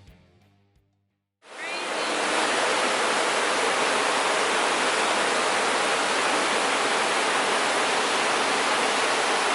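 Guitar music fades out, then after a brief silence the steady rushing of a waterfall cuts in about a second and a half in.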